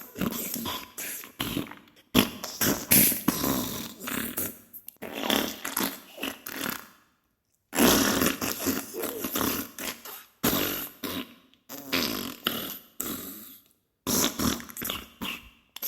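Diarrhea sound effect: a run of wet, spluttering farts and squirts in irregular bursts, with a silent pause of about a second near the middle.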